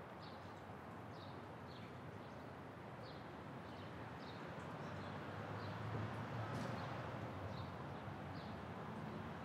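A bird giving short, high chirps over and over, about two a second, over a faint steady outdoor background noise.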